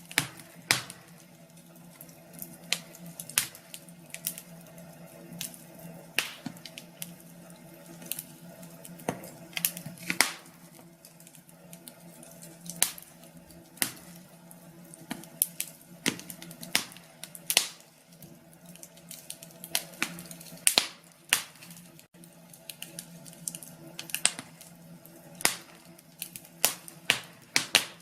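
Fire in a fireplace crackling: irregular sharp pops and snaps, roughly one or two a second, over a soft hiss.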